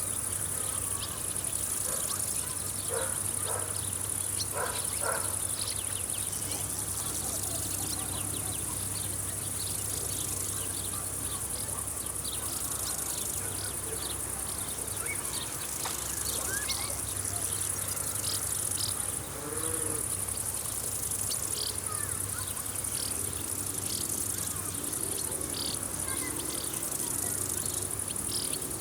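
A steady high-pitched chirring of field insects such as crickets, with short high chirps scattered through it and a low steady hum underneath.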